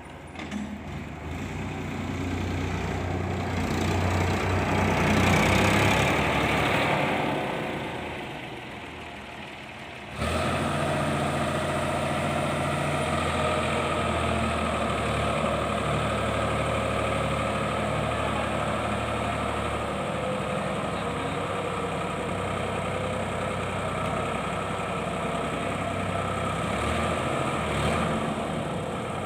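Diesel tractor engine running. It grows louder about five seconds in, then fades. About ten seconds in it jumps abruptly to a steady idle that holds to the end.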